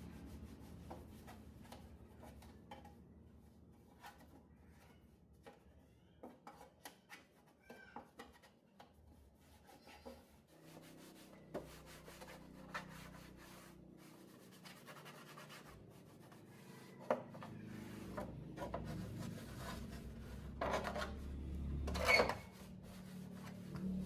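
Hands rubbing and handling hard parts: scattered light clicks and taps, then longer scraping rubs that get louder, the loudest about 21 to 22 seconds in.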